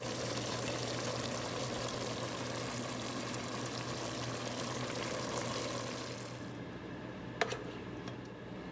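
A steady watery hiss of liquid, fading out about six and a half seconds in, followed by a single sharp click.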